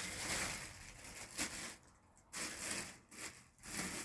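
Rustling and crinkling of food packaging being handled close to the microphone, in three bursts.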